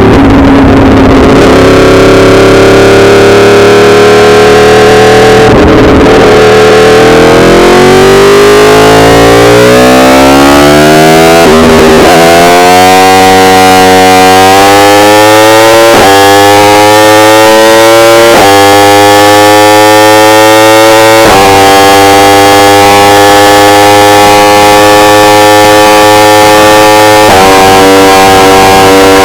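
Yamaha R1's inline-four engine under way, running at steady revs, easing off, then accelerating through several upshifts: the pitch climbs and drops back sharply at each shift. The recording is very loud and clipped, giving a distorted edge.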